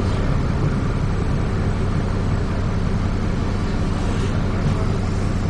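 Transbus ALX400 Dennis Trident 2 double-decker bus engine running, heard from on board as a steady low hum under even vehicle noise.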